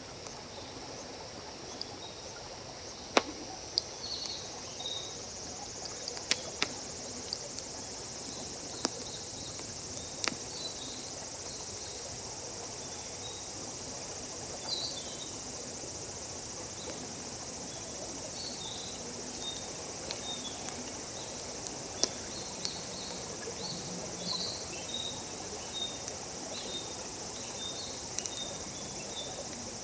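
Wood campfire crackling, with sharp single pops scattered irregularly, the loudest about three seconds in. Under it runs a steady high drone of crickets or other insects with short chirping calls.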